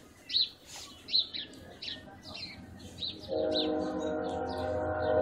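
A bird chirping repeatedly in short, sharp chirps. About three seconds in, a steady horn-like tone of several pitches comes in over a low rumble and holds.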